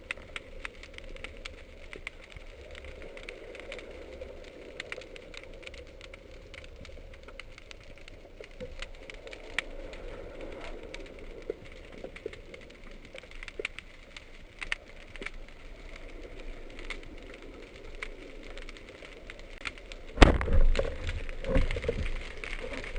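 Underwater ambience full of scattered sharp clicks and crackle. About 20 seconds in, a sudden loud low thump is followed by a churning rumble.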